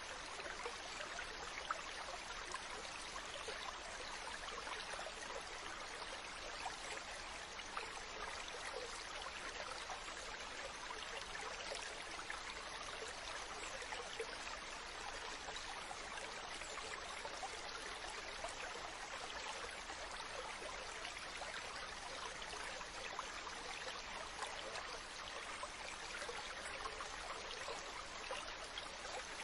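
Mountain stream running over rocks: a steady rush of water with small splashes and gurgles throughout.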